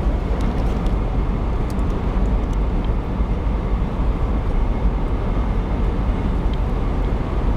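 Steady road and engine noise inside a moving car's cabin, with a few faint clicks in the first three seconds.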